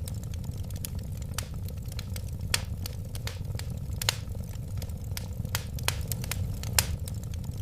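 Wood fire crackling: irregular sharp pops and snaps over a steady low rumble of burning flames. The loudest pop comes near the end.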